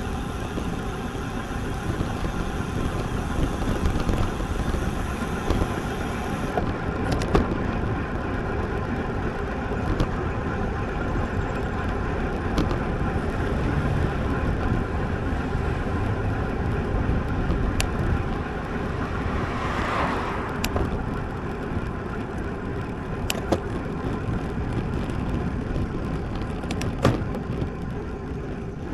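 Steady rush of wind and tyre noise from a road bike in motion, with a few sharp clicks and ticks scattered through it.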